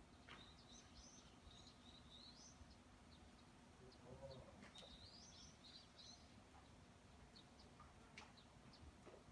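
Faint birdsong: two warbling phrases of high chirps, a few seconds apart, with scattered single chirps in between, over a low outdoor background hum.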